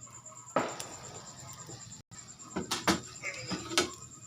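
A sharp knock about half a second in, then a run of lighter clicks and knocks, like objects being handled and set down.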